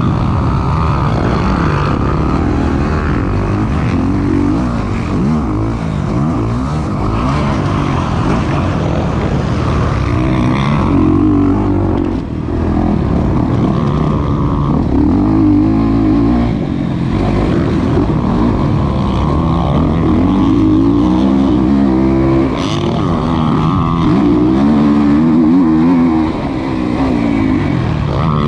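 Kawasaki KX450 four-stroke single-cylinder motocross engine, heard close up from an onboard camera, being ridden hard on a track: the pitch keeps rising and falling as the throttle is opened and shut through the gears, with brief throttle-offs about twelve seconds in and near the end.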